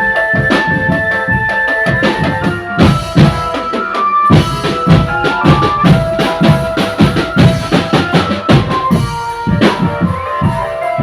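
Drum band music: fast, dense drum strokes under a stepping electronic keyboard melody.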